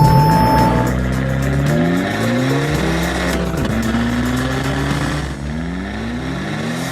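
Vehicle engine sound effect accelerating, its pitch climbing and dropping back several times as if shifting up through the gears, over background music.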